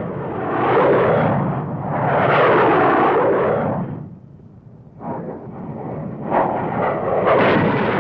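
Jet aircraft noise swelling and fading in loud waves with a sweeping rush, then sudden sharp blasts in the second half, typical of a low-level airstrike pass.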